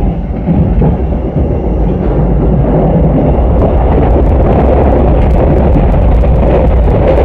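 Train running noise heard from inside the passenger car: a loud, steady rumble of wheels on the rails, with faint clicks from about three and a half seconds in.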